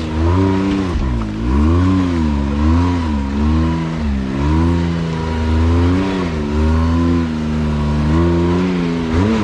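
Side-by-side UTV engine revving up and down in repeated throttle bursts, about once a second, while crawling over rock ledges.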